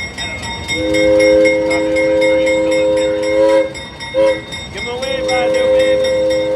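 Steam locomotive's three-note chime whistle: a long blast, a short toot just after four seconds in, then another long blast held to the end. This is the close of the long-long-short-long signal sounded for a road crossing. The train's running noise is heard underneath.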